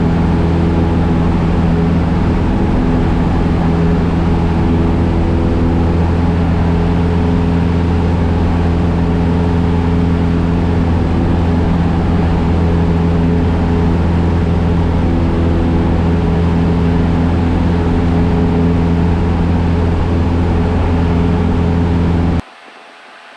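Cessna 172SP's four-cylinder Lycoming IO-360 engine and propeller droning steadily at takeoff power in the initial climb, heard inside the cabin. Near the end the sound drops suddenly to a much quieter steady hum.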